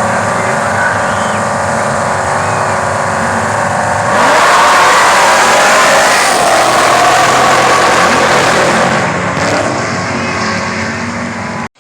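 Drag-racing car engines running at the starting line, then about four seconds in a sudden jump to a loud full-throttle launch that slowly fades as the cars run down the track, cut off just before the end.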